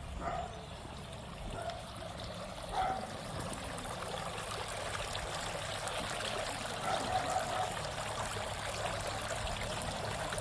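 Steady trickle of running water, like a small stream, growing slightly louder over the stretch.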